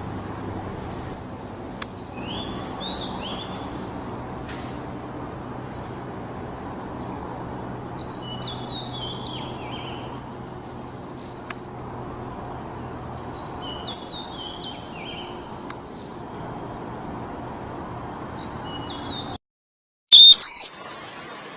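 Oriental magpie-robin (kacer) singing short phrases of descending whistled notes, four phrases with pauses between them, over a steady hiss. Near the end the sound drops out for a moment, then a loud, short burst of bird call follows.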